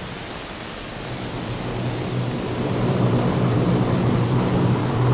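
Aircraft engines droning with a steady low hum over a hiss, growing louder through the first few seconds.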